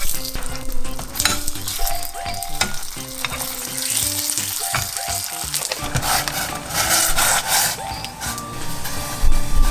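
Food sizzling as it fries in oil in a pan and is stirred, the sizzle strongest in the second half, over background music with steady notes. A low thump near the end.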